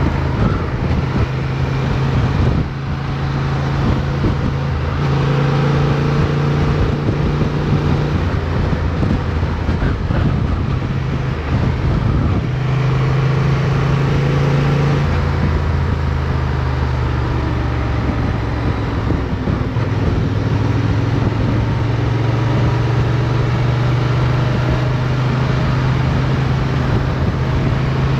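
Motorcycle engine running under way, heard from on board over a steady rush of wind and road noise. The engine note steps up and down several times as the rider changes throttle and gear through the turns.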